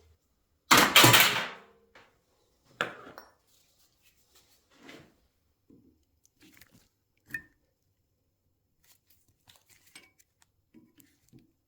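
Metal parts being handled on a workbench: a loud clatter lasting about a second, starting just under a second in, a shorter knock near three seconds, then scattered faint clinks and taps.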